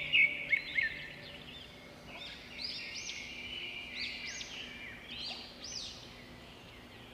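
Small birds chirping: many quick, high chirps that rise and fall in pitch, overlapping throughout, busiest at the start and again in the middle.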